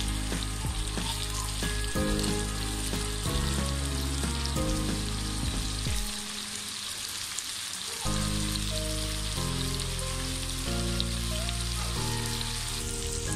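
Prawns and onion-spice masala sizzling steadily in hot oil in a wok over medium heat, stirred with a wooden spatula at first. Background music with sustained low notes changing about once a second plays under it, dropping away for a couple of seconds in the middle.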